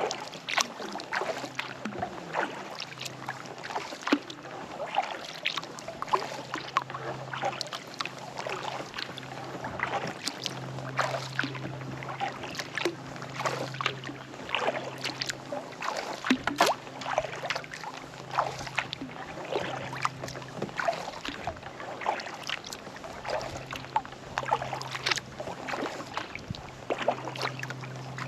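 Kayak paddle strokes through calm lake water: the blades dip and pull, and water drips and splashes off them in a continual run of small splashes.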